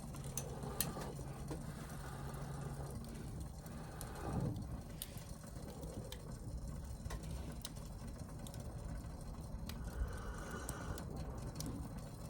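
Wood campfire crackling, with scattered sharp pops over a low steady hum that stops about three seconds in.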